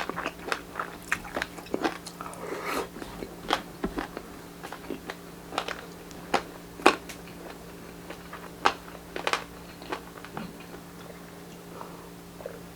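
Close-miked eating of grilled Filipino street-food barbecue: sharp, irregular crunching bites and chewing. They come thick in the first half and grow sparser toward the end.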